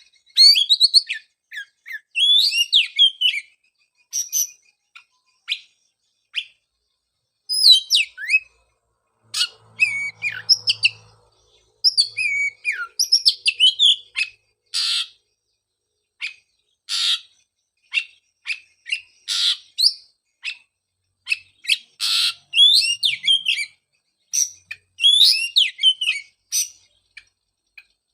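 Oriental magpie-robin singing: varied, rapid whistled phrases broken by short harsh rasping notes, delivered in bouts with brief pauses between them.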